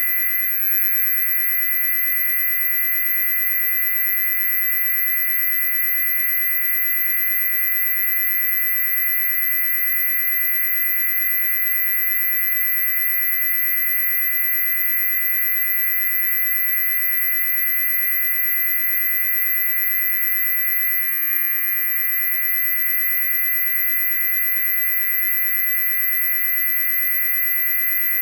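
Loud, steady, very high-pitched electronic tone that holds unchanged, layered over a cluster of fainter steady mid-pitched tones.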